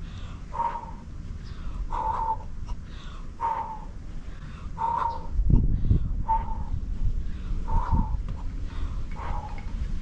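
A bird calling over and over, about one call every second and a half, over a low rumble that grows louder about halfway through.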